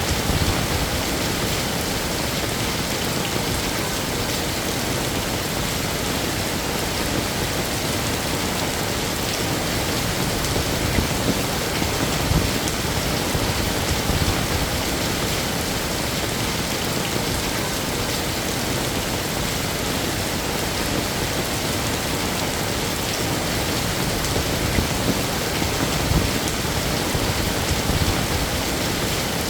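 Heavy rain falling steadily, an even dense hiss with scattered louder drops and splashes.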